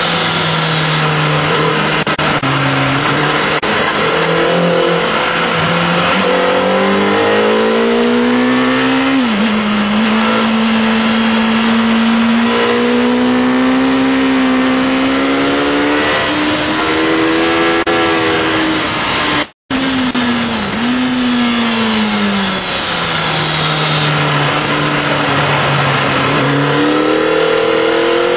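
Honda CBR Fireblade's inline-four engine heard from on board at speed over a steady wind rush. Its pitch climbs, drops sharply about nine seconds in, rises slowly, then falls away and climbs again near the end. The sound cuts out for an instant about two-thirds of the way through.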